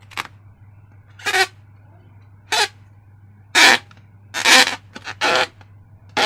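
Short squeaky, squelching rasps from slime-filled rubber balloons being handled, about eight of them at uneven intervals.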